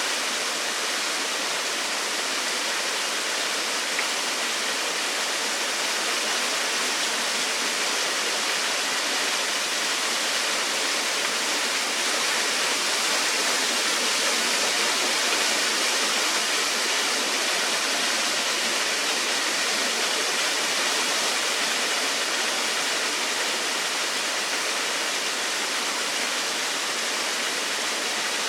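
Small waterfall with a fast flow of water: a steady, even rush of falling water.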